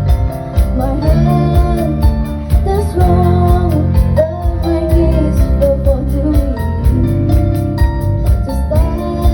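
Live band playing a pop ballad cover, with a female voice singing over keyboards, bass and drums at a steady beat.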